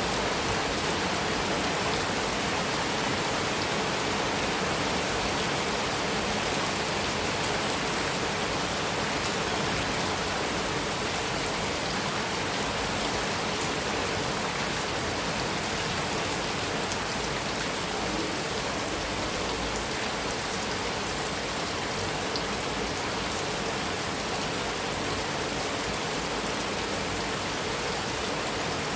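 Heavy rain falling steadily on a metal roof, an even unbroken hiss of drops with no thunder.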